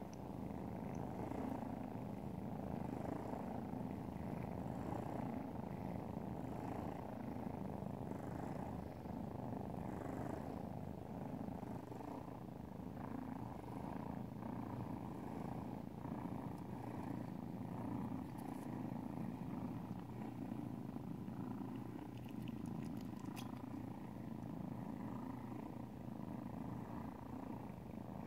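Mother cat purring steadily and without a break, a deep, engine-like purr.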